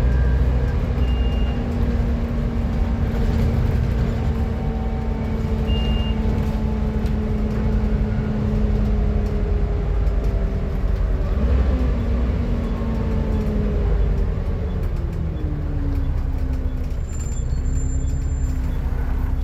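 Volvo B7TL double-decker bus running, a constant low engine rumble under a loud vacuum-cleaner-like whine, the bus's 'hoover' sound, whose pitch slowly falls and drops further about three-quarters of the way through as the bus slows. Two short high beeps sound early on and about six seconds in.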